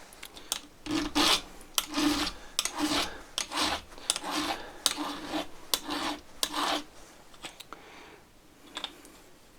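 A file rasping back and forth over the steel depth gauges (rakers) of a Stihl MS661 saw chain, about two strokes a second. The strokes stop about seven seconds in.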